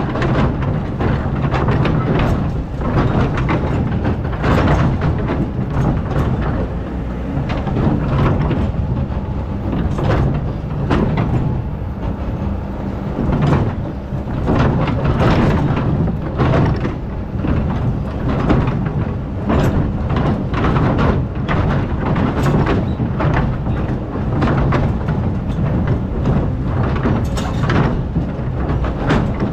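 Excavator's diesel engine running under load, with repeated scrapes and knocks of the bucket digging into a hard-packed layer of old sand.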